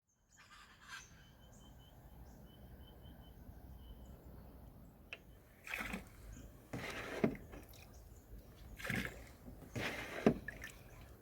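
Canoe paddle strokes splashing in the water, roughly one every second or two through the second half. Before them a bird gives a quick run of short, even chirps.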